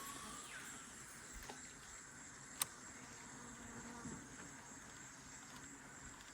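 Faint, steady, high-pitched insect drone from the rainforest, with a single sharp click about two and a half seconds in.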